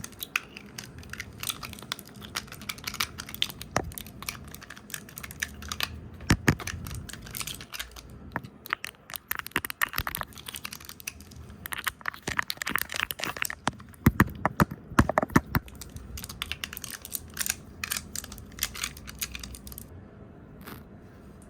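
Fast, chaotic ASMR tapping, brushing and hand sounds on a camera lens close to the microphone: a dense, uneven run of sharp clicks and rustles that stops near the end.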